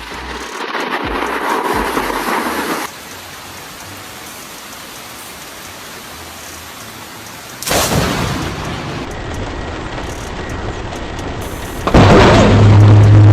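Steady rain, then a sudden thunderclap about eight seconds in that rumbles on as it fades, and a second, louder thunderclap near the end.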